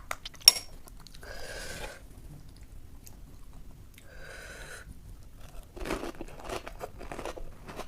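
Puchka (panipuri) being eaten close to the microphone: a sharp crack about half a second in as a crisp shell is bitten, then chewing, and a run of crunching near the end.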